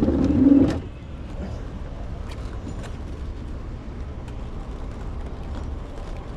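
Truck engine idling with a steady low rumble, with a short louder burst of sound in the first second.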